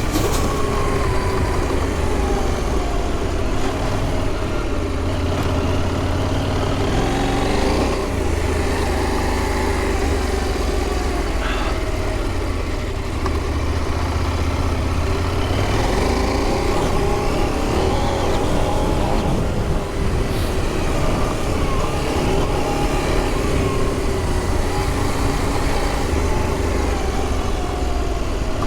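Motorcycle engine running hard off-road, its pitch rising and falling over and over as the throttle is opened and closed, over a steady low rumble of wind.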